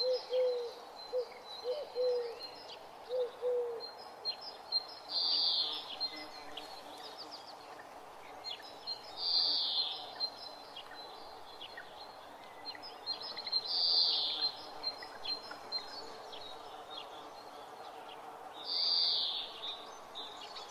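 Forest birds calling: a short, high trilled call repeated about every four to five seconds, with a series of short low hooting notes in the first few seconds.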